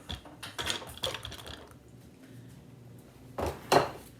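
Kitchen items being handled, a series of scattered knocks and clatters, the loudest pair about three and a half seconds in.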